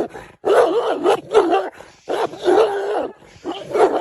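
A dog vocalizing in about four drawn-out calls, each wavering up and down in pitch, with short breaks between them.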